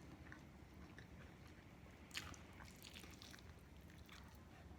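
Faint chewing and biting of fried chicken, with a short crisp crackle a little over two seconds in and small soft clicks of the mouth and food around it.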